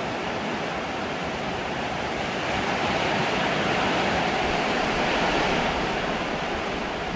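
Hurricane rain and wind: a steady rushing hiss of heavy rainfall that swells louder about two and a half seconds in and eases slightly near the end.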